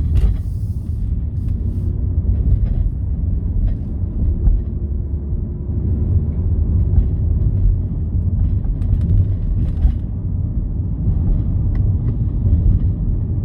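Low, steady rumble of a car driving, heard from inside the cabin, with a faint steady hum and a few small clicks and knocks.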